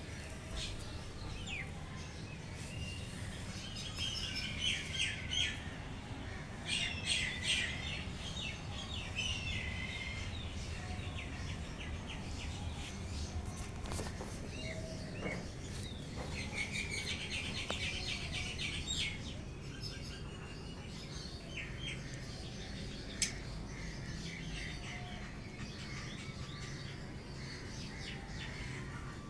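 Small birds chirping and twittering in quick clusters, busiest in two spells, over a low steady background hum, with one sharp click about two-thirds of the way through.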